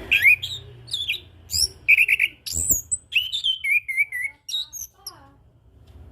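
Chestnut-capped thrush (anis kembang) singing a rapid run of varied whistled phrases, glides and quick trilled notes, stopping about five seconds in.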